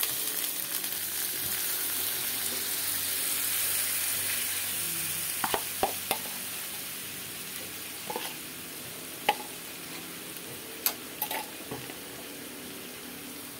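Curry spice paste sizzling in hot oil in a wok just after it has been poured in. The frying hiss is loudest at first and dies down over the first several seconds, with a few sharp pops of spitting oil in the second half.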